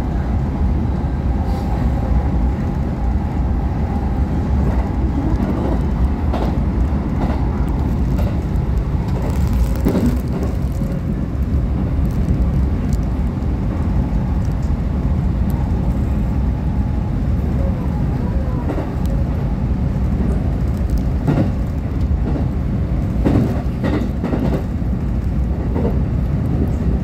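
Electric train running along the line, heard from inside a passenger car: a steady low rumble with scattered clicks from the wheels.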